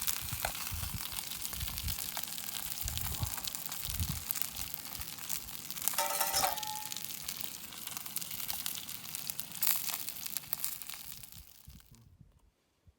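Sausages frying in a pan: a steady crackling sizzle with a short squeaky scrape about halfway, fading away near the end.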